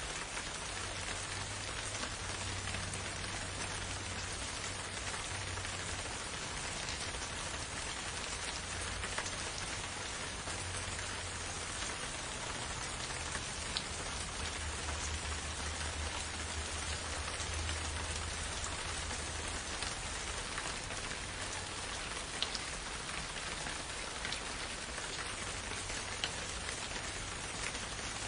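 Steady rainfall in a forest, an even hiss of rain with a few distinct louder drops landing close by, over a soft low rumble.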